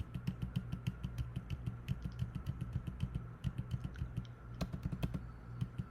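Computer keyboard keys tapped in quick succession, several clicks a second with short pauses, over a steady low hum.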